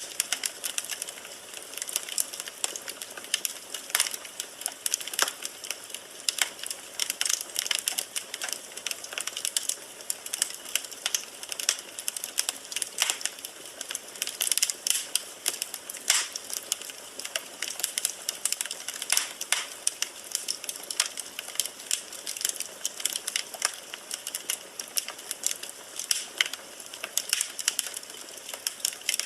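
Firewood burning in a fireplace, crackling steadily with many irregular sharp pops and snaps.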